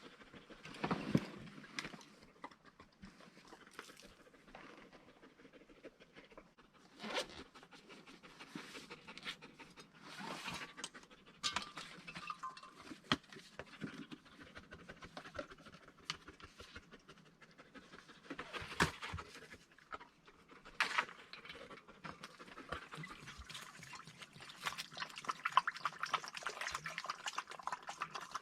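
A dog panting, with many scattered small clicks and rustles.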